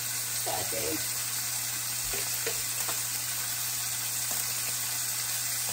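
Marinated chicken frying in a skillet: a steady sizzle. Beneath it runs a steady low hum from the kitchen fan.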